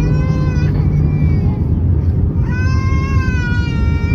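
Steady cabin roar of an Airbus A320 in flight, with a small child crying in long, high wails over it: a short wail ending just after the start and a longer one beginning about halfway through.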